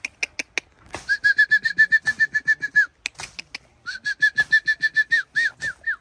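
A bird calling in two runs of rapid repeated notes at one pitch, about ten a second, each run lasting about two seconds. A few sharp clicks come at the start and between the runs.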